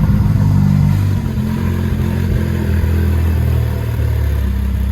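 Ferrari F8's twin-turbo V8 running at a high cold-start idle, loud and steady. Its pitch steps down a little about a second in and again near three seconds as the idle settles.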